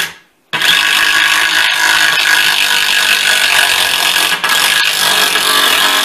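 Cordless power driver running steadily, driving a screw into a wooden stair railing; it starts about half a second in and is loud.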